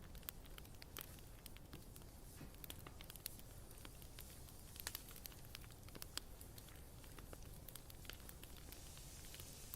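Bonfire crackling quietly: irregular sharp snaps and pops, several a second, over a steady low background.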